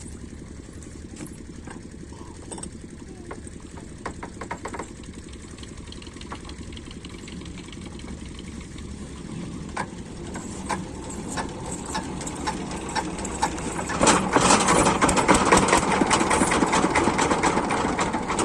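Single-cylinder Rajkot diesel engine of a farm water pump set running with a regular knocking beat. It gets much louder about fourteen seconds in.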